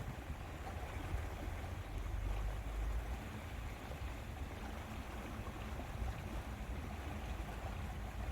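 Wind rumbling on the microphone over a steady rush of water at a lake's edge.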